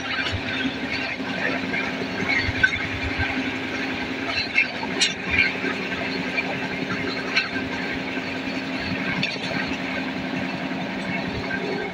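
Passenger train running at speed, heard from beside an open coach window: a steady rumble of wheels on rail and rushing air with a low hum, broken by scattered clicks and knocks.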